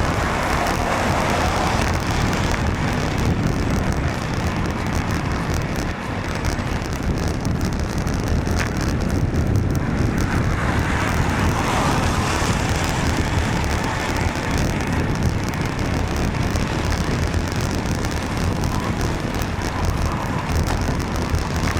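Wind rumbling on the microphone of a camera carried on a moving bicycle, mixed with traffic noise from a wet road. Passing vehicles swell the hiss near the start and again about eleven seconds in.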